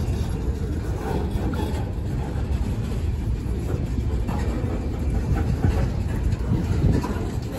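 Loaded HZGX rock gondola cars of a freight train rolling past. The steel wheels make a steady low rumble on the rails, with a few faint clicks as they pass over the track.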